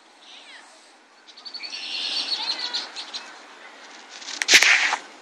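Songbirds singing: a short falling chirp, then a rapid run of high chirps and a trill. Near the end comes a louder harsh burst of sound with a sharp thump.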